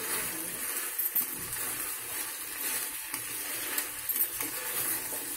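Chicken Manchurian cooking in a wide pan, sizzling steadily while a metal spoon stirs through the thick sauce, with a few short scrapes and clinks of the spoon against the pan.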